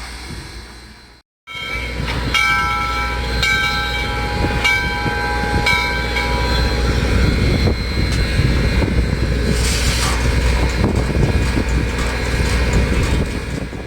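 A railroad bell ringing about once a second, four strikes, each ringing on in several clashing tones, over the low rumble of a train. After the bell stops, the train rumble carries on, with a brief hiss partway through.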